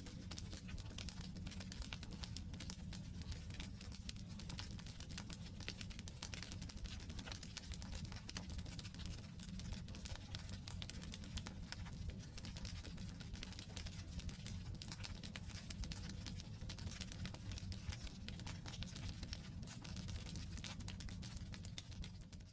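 Wood campfire burning: dense, irregular crackling and popping of the logs over a steady low sound of the flames.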